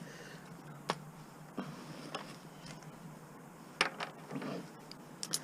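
A few scattered clicks and light metal knocks from tools and mower parts being handled, about six in all, the loudest nearly four seconds in.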